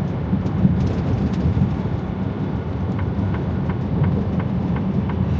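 Freightliner Cascadia semi truck driving at road speed, heard from inside the cab as a steady low drone of engine and road noise. Faint regular ticking, about three a second, starts about three seconds in.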